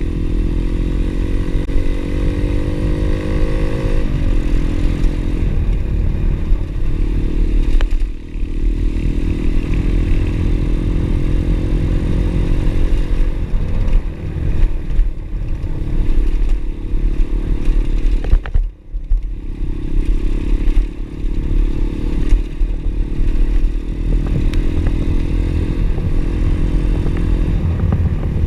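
Pit bike engine running hard on an off-road ride: its pitch climbs as it revs, drops sharply at gear changes or when the throttle is let off, and climbs again, with a heavy low rumble and rattling throughout.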